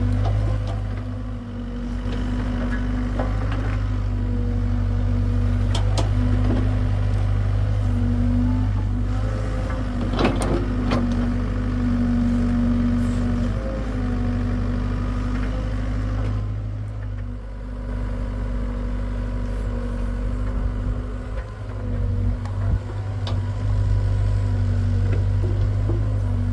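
Hitachi excavator's diesel engine running steadily, with a few sharp knocks about six and ten seconds in.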